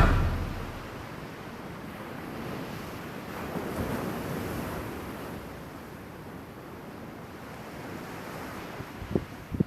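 Ocean surf: waves washing and breaking in a steady rush that swells for a couple of seconds partway through, with wind on the microphone. A couple of short knocks come near the end.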